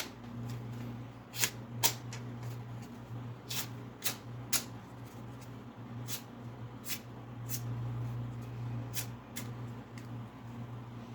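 Steel knife blade making short, crisp strokes, about a dozen at irregular intervals, over a low steady hum.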